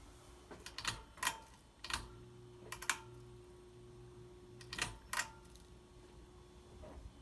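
Sharp clicks, mostly in pairs, from the speed controls of a Hunter Coastal Breeze Plus ceiling fan as its speed is changed. A faint steady hum runs between about two and five seconds in.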